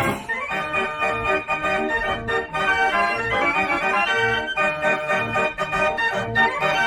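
Fair organ playing a tune: many sustained organ notes over a regular bass beat.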